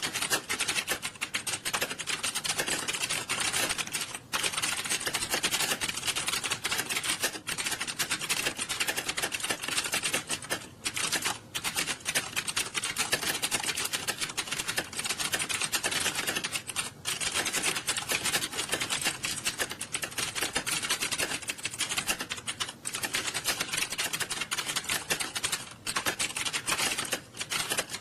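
Many computer keyboards being typed on fast and at once, a dense, continuous clatter of key clicks with only brief lulls, in a room full of candidates sitting a timed typing test.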